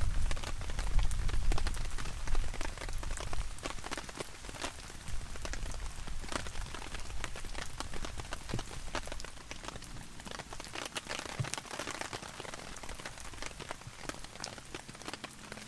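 Heavy rain falling on a DD 3x3 tarp, a dense patter of drops, loudest at the start and easing off over the following seconds.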